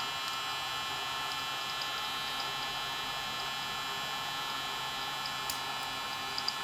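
Electric popcorn maker running steadily on test with its replaced motor, giving a constant hum and whir. A few faint ticks come in near the end.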